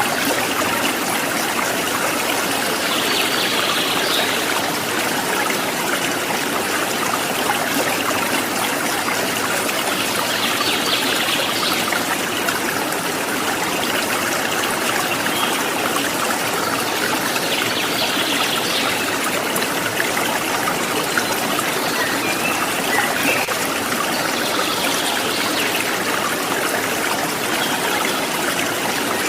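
Water trickling and babbling steadily over stones, with faint bird chirps now and then, about every seven seconds.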